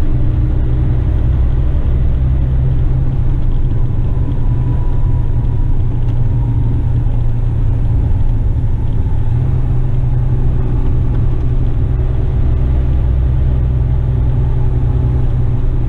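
Western Star tipper truck's diesel engine running and road noise as the truck drives, a steady low drone whose engine note changes about nine seconds in.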